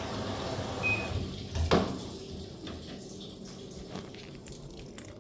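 Water running into a top-load washing machine's drum, stopping about a second and a half in, followed by a single sharp knock and then faint dripping.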